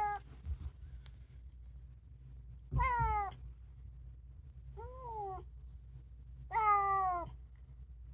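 Domestic cat meowing: three drawn-out meows about two seconds apart, each falling in pitch.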